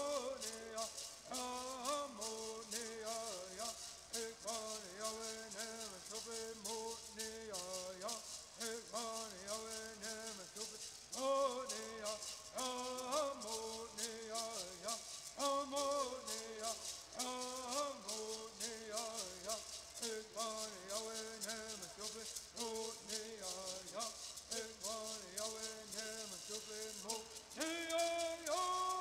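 Southern California bird singing: voices singing a repeating melody together over gourd rattles shaken in a fast, steady rhythm. The song climbs into a new, higher phrase about eleven seconds in and again near the end.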